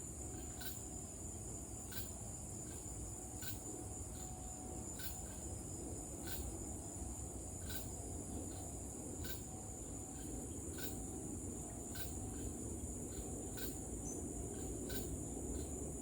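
Evening insect chorus of crickets and cicadas: a steady high-pitched drone with a regular tick about every second and a half. A low rumble runs underneath.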